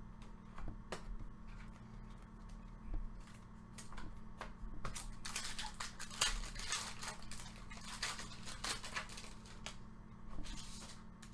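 Trading cards and pack wrapping being handled: a run of rustles, slides and light clicks, busiest in the middle and again near the end.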